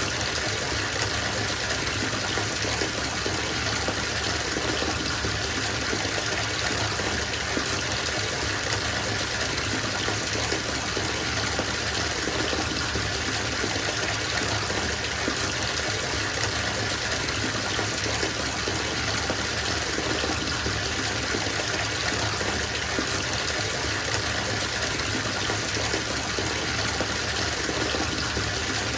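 Bathtub filling from the tap: a steady, unbroken gush of water running into the tub.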